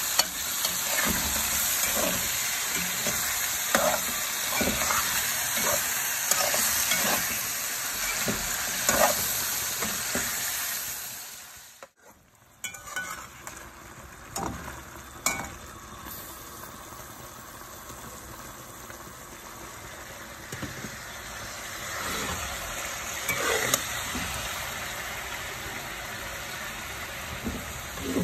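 Chicken pieces sizzling in hot oil in a metal pan, with repeated scrapes and knocks of a slotted spatula as they are stirred. About twelve seconds in, the sizzle drops abruptly and carries on quieter.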